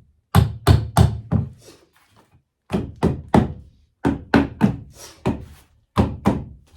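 Hammer driving a nail into a wooden board: about fourteen sharp blows in four quick runs of three or four strikes, with short pauses between the runs.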